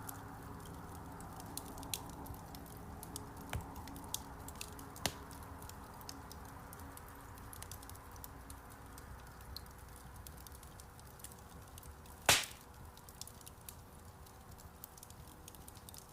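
Wood fire crackling in a fireplace: a steady low rumble with scattered small sharp pops, and one louder pop about three-quarters of the way through.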